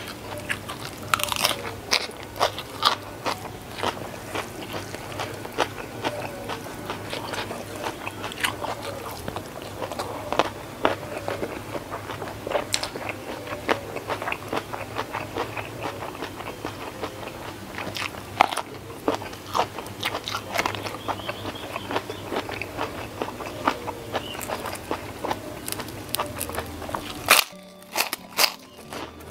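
Close-miked chewing of a mouthful of sambal rice with raw lettuce and shrimp, with a constant run of crisp crunches and wet clicks. Near the end come a few louder, sharp crunches as a crisp white kerupuk cracker is bitten.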